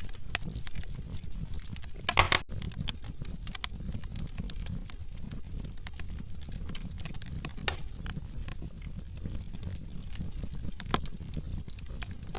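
Wood fire burning in a fireplace, crackling with irregular sharp pops over a low steady rumble of the flames. A louder burst of pops comes about two seconds in.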